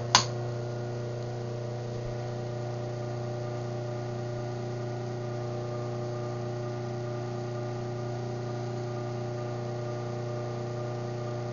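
Craftsman garage door opener closing. A sharp click at the start, then its motor runs with a steady, even hum, which cuts off just before the end.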